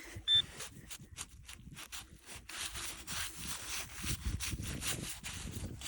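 Soil being scraped and rubbed in a dug hole while hunting for a small metal target, a rough scraping of many short strokes, with one short high electronic beep from the detecting gear just after the start.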